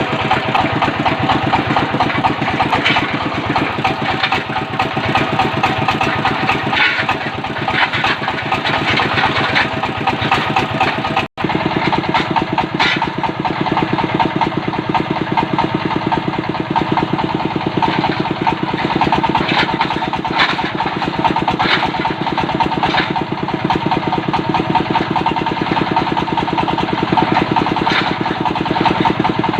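Diesel engine of a water-well drilling machine running steadily under load. It cuts out for an instant about eleven seconds in, then carries on as before.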